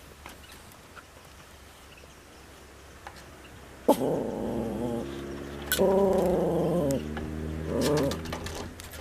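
Miniature pinscher growling at its own reflection in the water: a long growl starting sharply about four seconds in, a second one soon after, and a shorter one near the end.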